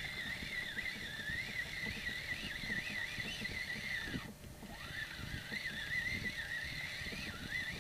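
Fishing reel being cranked to bring in a hooked trout: a steady whine that wavers up and down with each turn of the handle, stopping briefly about four seconds in before the winding resumes.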